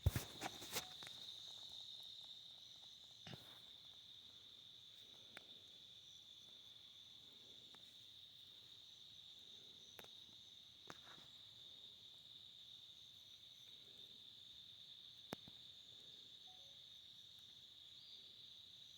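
Crickets chirring in a steady, unbroken high trill. A few sharp clicks break in, a cluster in the first second and single ones every few seconds after.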